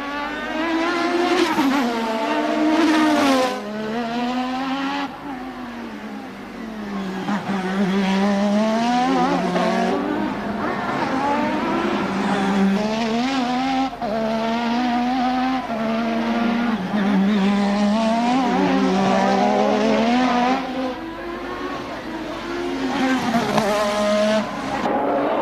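A 1988 Formula One car's engine at racing speed, its pitch climbing through the revs and dropping sharply again and again as it shifts up through the gears, with two spells where the revs fall and the engine goes quieter under braking and downshifts.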